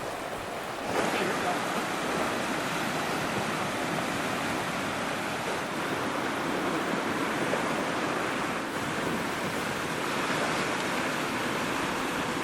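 Ocean surf washing in as a steady rush, with wind buffeting the microphone; it grows a little louder about a second in.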